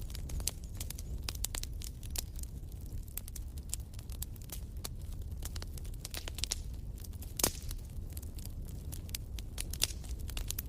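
Wood fire crackling, with irregular sharp pops over a steady low rumble and one louder pop about seven seconds in.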